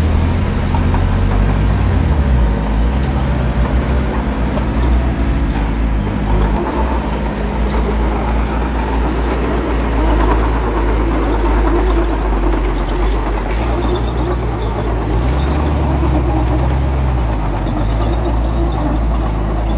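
Diesel engine of heavy earthmoving equipment running steadily, its engine note shifting in pitch a couple of times.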